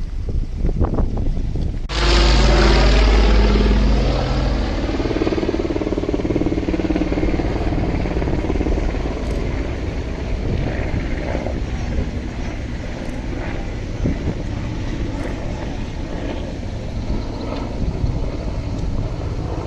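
Engine noise of a firefighting vehicle or aircraft. It starts suddenly about two seconds in and is loudest for the next two seconds or so, with a steady low hum, then runs on steadily.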